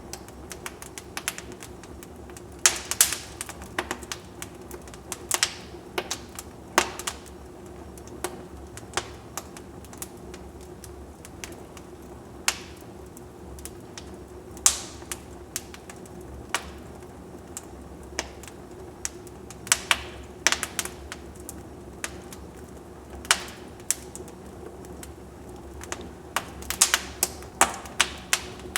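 Wood fire in a fireplace crackling: irregular sharp pops and snaps, some much louder than others, over a steady low background.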